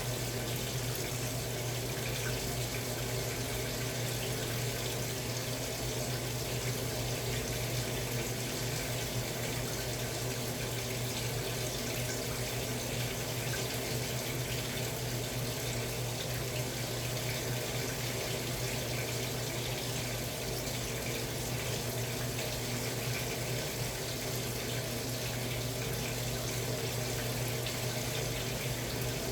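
Steady rush of running water in a Samsung Wobble 14 kg top-loading washing machine, with a constant low hum under it.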